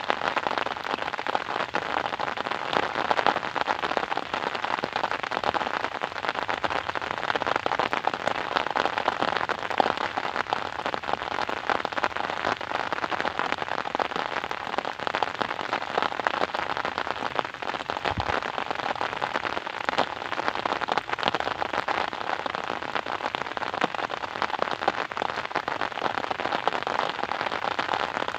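Rain falling steadily: an even wash of noise made of countless small drop hits, with no change in strength.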